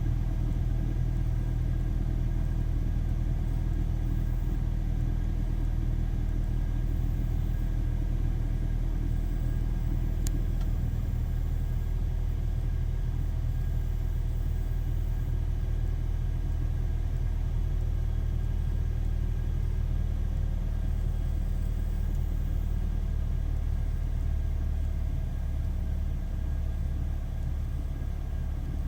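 BMW E46 318i's N46B20 inline four-cylinder engine idling steadily after a cool start, its note easing slightly quieter near the end. The owner puts the running down to a mass airflow (MAF) sensor problem.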